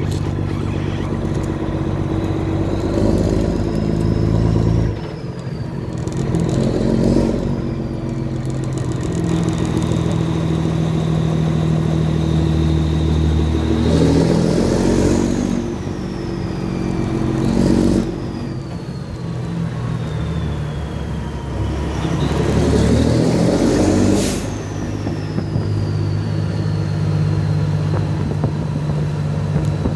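Kenworth truck's diesel engine through 8-inch straight pipes, running loud and surging up and dropping back about five times, with a turbocharger whistle that rises and then falls away after each surge.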